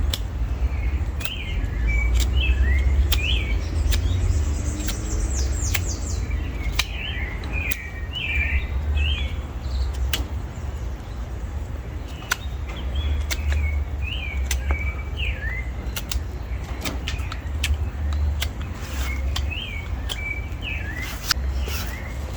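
Small birds chirping: bursts of short, quick chirps recur throughout, with a brief run of high falling notes about four seconds in. Under them there is a steady low rumble, with scattered sharp clicks.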